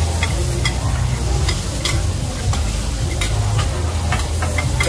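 Hoi tod (green-mussel and egg pancakes) sizzling in oil on a wide flat iron griddle, with metal spatulas scraping and clacking against the griddle many times as they are turned. A steady low hum runs underneath.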